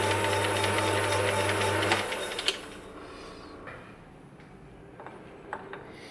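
Myford S7 lathe running with a steady hum and whine, then switched off about two seconds in and falling quiet. A sharp click follows shortly after, then a few light clicks.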